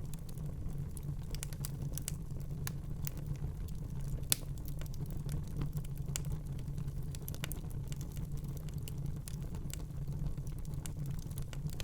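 Wood fire crackling in a fireplace: a steady low rumble of the flames with irregular sharp pops and snaps, one louder pop about four seconds in.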